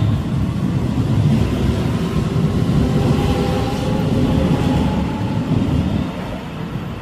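Keio Line electric commuter train running through the station: a loud rumble of wheels on rail with a faint steady motor whine, dying away about six seconds in.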